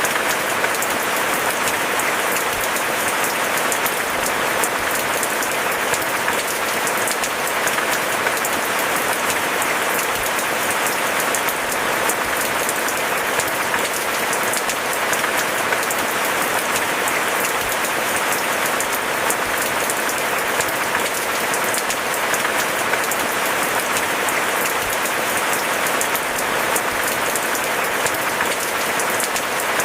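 Steady rain falling, a dense, even patter of many small drops that holds without change.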